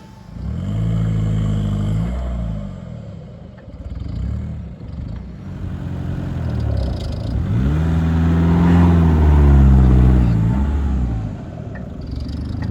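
A four-wheel-drive's engine revving hard under load as it drives up a sand dune. The pitch rises about a second in, eases off, then climbs to a higher, louder peak around nine seconds before dropping back.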